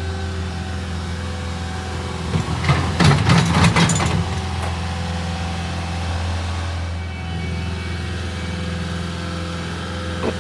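An engine idling steadily, with a burst of clattering knocks about two and a half seconds in that lasts under two seconds.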